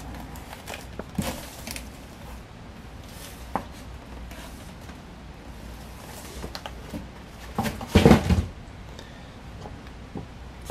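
A cardboard box being handled: scattered rustles and light knocks, with a louder cluster of thumps and rubbing about eight seconds in.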